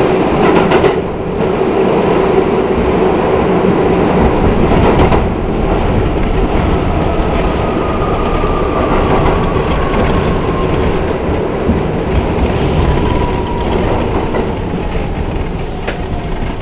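Interior of a Bombardier R62A New York subway car running through the tunnel: a steady rumble of wheels on rail with a few sharp clacks. Through the second half, a whine falls steadily in pitch as the train slows toward the next station.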